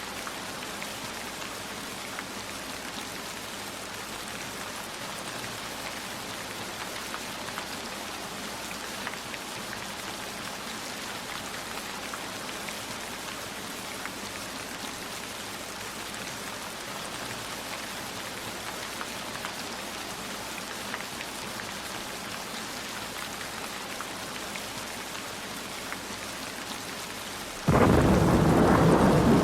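Steady rainfall with fine scattered drop ticks. Near the end a much louder low rumble starts suddenly.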